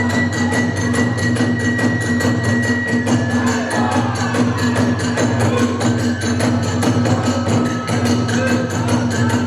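Kagura hayashi ensemble of drums and hand cymbals playing a fast, steady beat. A high note is held for about the first three seconds.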